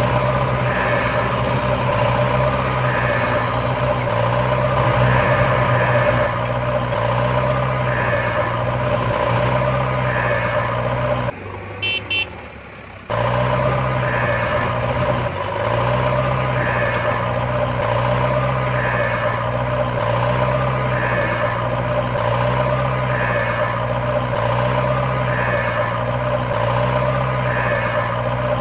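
A heavy vehicle's engine running steadily while a reversing alarm beeps about once a second. The sound drops out briefly about a third of the way through.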